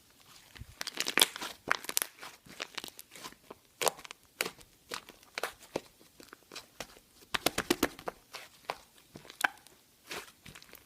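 Slime being squeezed, pressed and pulled by hand, giving a string of irregular sticky crackles and pops, with a denser cluster of them a little past the middle.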